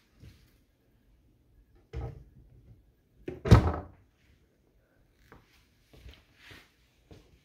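A cabinet door being shut: one loud thunk about three and a half seconds in, after a softer knock at about two seconds, followed by a few light taps and bumps.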